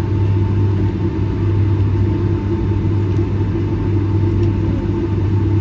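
Steady cabin rumble of a Boeing 757-200 airliner with the engines at low power, a deep even hum with fainter steady tones above it.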